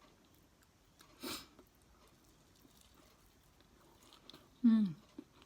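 Quiet chewing of tamagoyaki close to the microphone, with faint small mouth clicks. There is a short breathy burst about a second in and a brief hum falling in pitch near the end.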